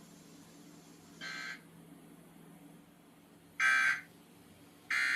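NOAA weather radio sounding its digital end-of-message tones after a severe thunderstorm watch: short buzzing data bursts, a faint one about a second in, then two loud ones about 1.3 s apart near the end, over a low steady hum.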